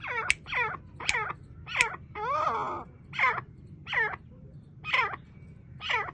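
Male francolin (teetar) calling: a string of short, sharp calls, each sliding quickly down in pitch, about one every three-quarters of a second, with one longer, rougher call a little over two seconds in.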